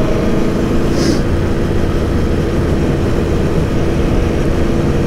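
Aprilia Tuono V4 1100's V4 engine running at a steady, constant speed while riding.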